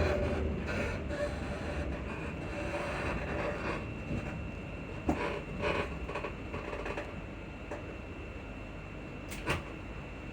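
Class 334 electric train interior as the unit comes to a stand: the running rumble and a falling motor whine die away in the first second or so. Then the standing train is quieter, with a few sharp clicks and knocks and a faint steady high tone.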